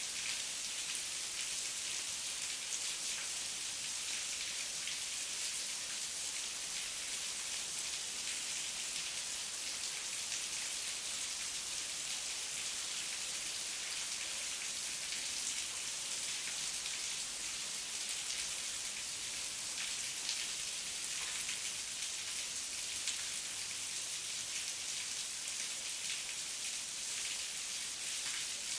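Heavy rain falling steadily, a dense even hiss of many fine drops.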